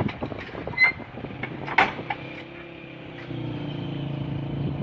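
A railway level-crossing gate clanks shut almost two seconds in, with a short squeak and click just before. Then a motor vehicle engine idles with a steady low hum that grows louder a little after three seconds.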